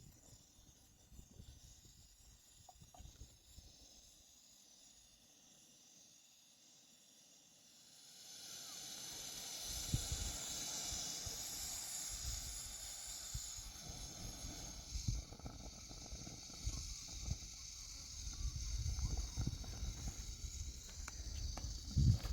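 A steady hiss fades in about eight seconds in, with low rumbling and scattered knocks beneath it that grow louder near the end.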